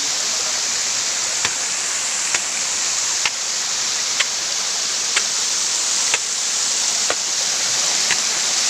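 Steady rush of flowing water, with a short sharp click about once a second.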